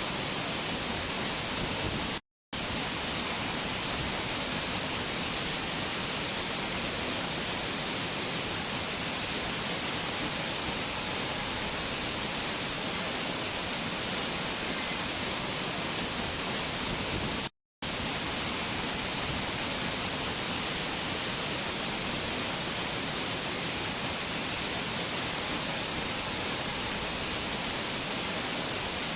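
Waterfall: water falling and splashing in a steady, even rush with a strong hiss. The sound cuts out completely twice for a split second, about two seconds in and again past the middle.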